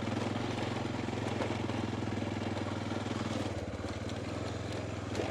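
Honda Dominator's single-cylinder four-stroke engine running under load as the motorcycle climbs a steep dirt trail, a steady low beat. About three and a half seconds in, the note drops slightly and the separate firing pulses come through more plainly.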